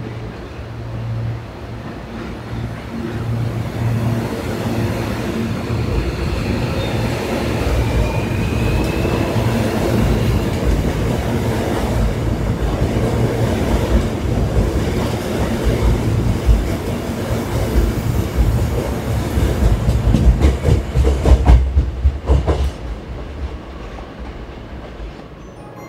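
Hankyu electric train pulling out of the station. A steady low hum swells as it gets under way, with a faint rising whine as it gathers speed. Its wheels then clatter over rail joints and points for a few seconds about twenty seconds in, and the sound fades.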